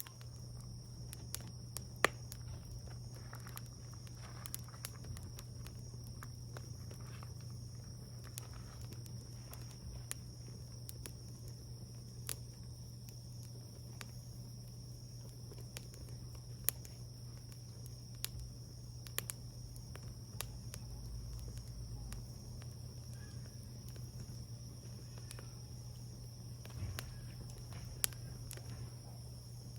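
Wood fire burning, crackling with scattered sharp pops at irregular intervals. A steady low hum and a steady high-pitched tone run underneath.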